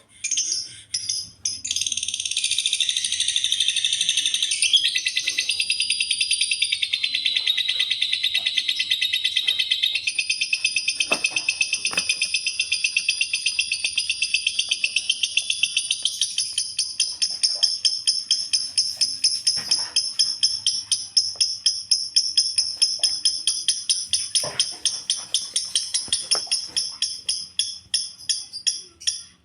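Lovebird giving a long, unbroken chattering trill of rapid high-pitched notes, its notes becoming more separate in the second half.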